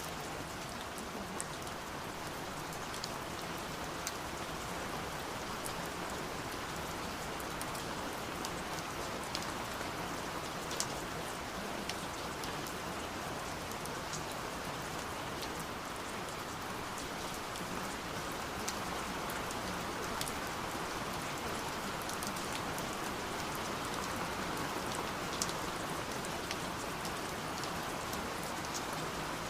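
Steady rain falling on a surface, with scattered drops landing as sharp little taps.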